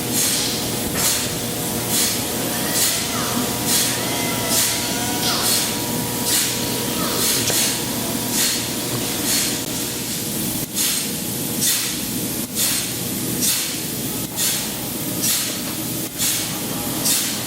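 Boat-factory floor noise: a short hiss repeating a little more than once a second over a steady machine hum, with a few brief squeaks early on.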